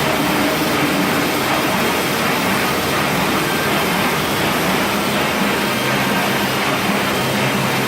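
Automatic toilet-tissue roll band saw cutting machine running steadily: a continuous loud machine noise with a faint low hum under it.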